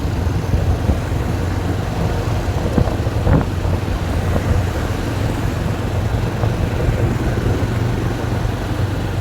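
Motorcycle running at a steady road speed, a continuous low rumble with road noise.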